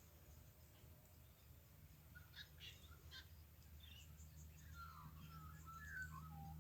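Faint bird calls in a near-silent bush setting over a low steady hum: a few short high chirps about two seconds in, then a warbling phrase near the end.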